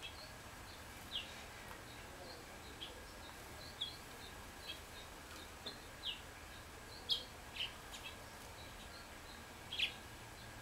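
Small songbirds calling with short, scattered chirps, some of them quick falling notes, over a steady faint hiss. The louder chirps come about two-thirds of the way through and again near the end.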